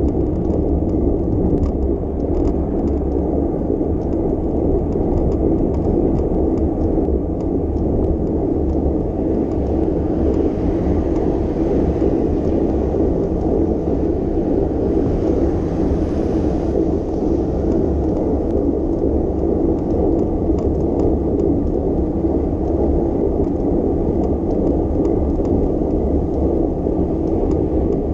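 Steady low rumble of riding a bicycle on city streets: road and wind noise on the microphone, with a slightly brighter hiss about halfway through.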